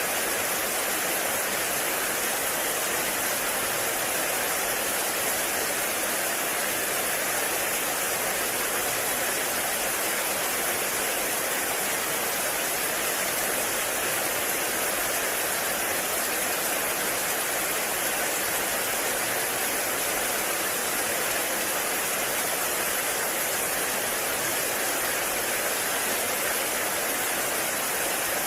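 Heavy rain falling steadily in a forest, a dense even hiss with no breaks.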